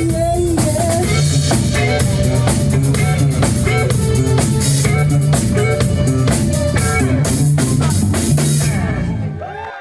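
Live band playing with drum kit, bass and electric guitar, the drums and bass loud and steady. The music stops abruptly near the end, leaving a few voices from the audience.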